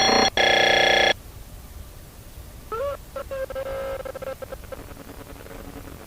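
A loud steady electronic tone, several pitches sounding together, broken by a brief gap and cutting off abruptly about a second in. Fainter gliding and wavering tones follow over a low hiss.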